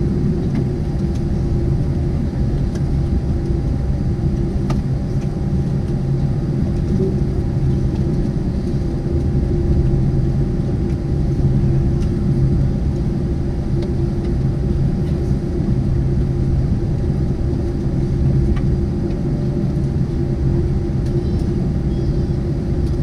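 Steady low rumble and hum inside the cabin of a Boeing 747-8 taxiing to the gate after landing, with its engines at idle thrust.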